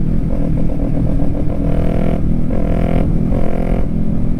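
Kawasaki Ninja 400 parallel-twin engine running at road speed, heard from the rider's helmet with heavy wind rumble over the microphone.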